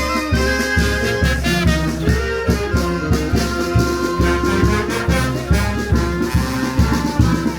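Peruvian brass band playing a lively tune: brass melody over a steady bass-drum beat of about two beats a second.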